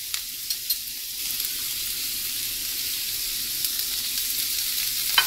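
Chopped vegetables frying in a hot pan, a steady high sizzle. A metal spoon scraping green onions and capsicum off a plate into the pan makes a few light clicks in the first second and a sharp click about five seconds in.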